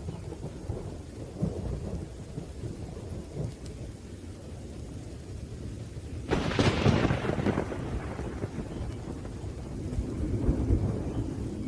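Thunderstorm: continuous low rumbling thunder with a sharp thunderclap about six seconds in that fades over a second or two, and another swell of rumble near the end, over steady rain.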